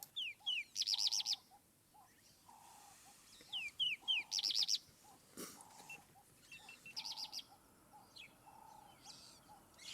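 Wild birdsong: one bird repeats a short phrase of two quick falling whistles followed by a rapid high trill, about three times, over a steady run of short low notes.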